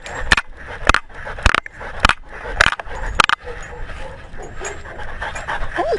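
A dog panting right beside a collar-mounted camera, with heavy breaths about twice a second for the first half, then softer, and a brief high squeak near the end.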